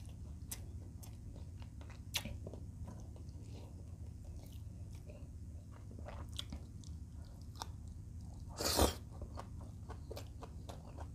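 A person chewing a mouthful of rice, fried chicken and sweet potato leaves, with small wet mouth clicks scattered throughout. A short, louder noise comes about three quarters of the way in.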